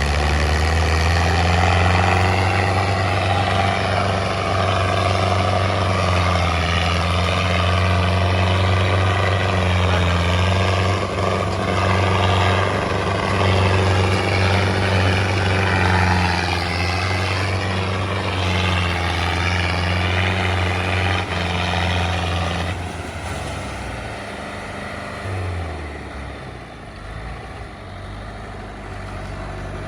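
Belarus tractor's diesel engine running steadily with a deep, even drone; a little over two-thirds of the way in, the steady note breaks off and the sound drops to a quieter, rougher level.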